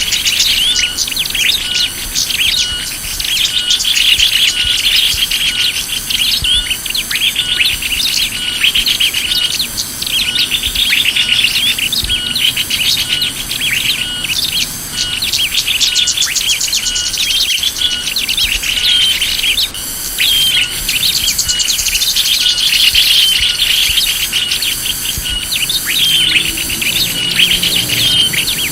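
Bird-lure recording of small songbirds chirping: a dense, continuous stream of quick high chirps and trills, with a regular high pulse repeating about once a second above them.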